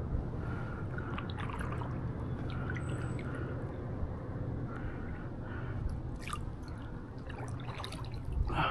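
Paddle strokes in the water, with splashing and water dripping and trickling off the paddle blade.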